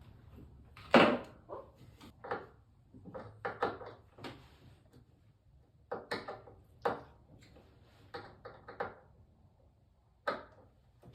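Irregular knocks, clicks and small rattles of hands working on a wooden dresser drawer and its knobs while the knobs are being changed, with the loudest knock about a second in.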